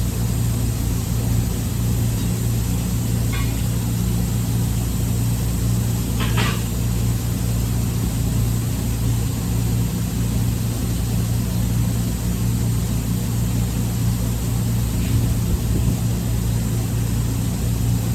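Steady low machinery drone with an even hum that does not change, and two faint clicks about three and six seconds in.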